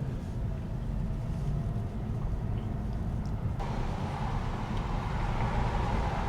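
Steady road and engine rumble of a moving car heard from inside the cabin; about three and a half seconds in, a louder tyre hiss sets in suddenly.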